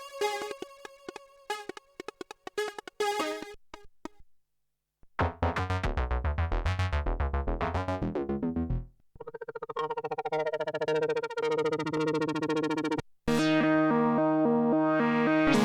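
Arturia MicroFreak synthesizer presets played one after another: short plucked staccato notes, a brief gap, then a fast low bass sequence, a brighter rapid sequence, and about 13 seconds in a held low note under a stepping pattern of notes.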